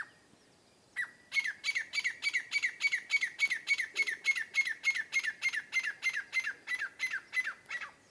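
A bird squawking in a fast, even series of about three calls a second, each call dropping in pitch; the calls begin about a second in, after a short click.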